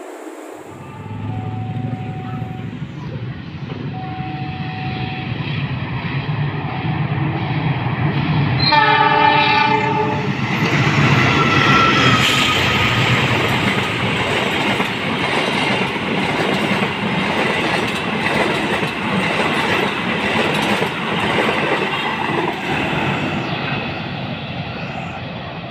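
Argo Parahyangan passenger train passing close by. The horn gives one blast of about a second roughly nine seconds in, then the coaches run past with a heavy rumble and wheel clatter over the rail joints, loudest just after the horn and slowly easing off.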